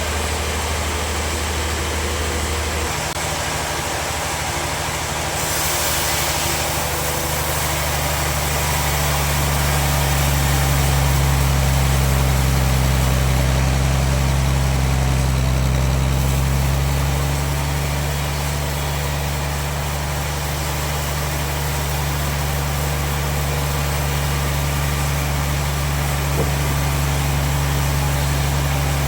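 Sawmill machinery running steadily: a low motor hum whose pitch shifts a few times, about three seconds in and again near the middle, as the load changes.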